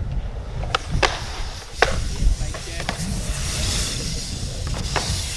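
BMX bikes riding a concrete skatepark: a steady low rumble of rolling with a handful of sharp knocks and clacks from landings and hits on the concrete.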